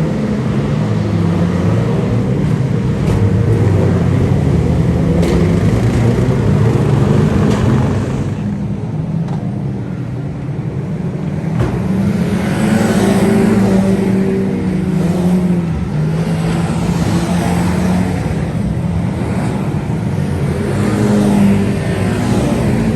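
Several 2-litre saloon stock cars racing, their engines revving and passing, dipping briefly about a third of the way in before the pack comes round again.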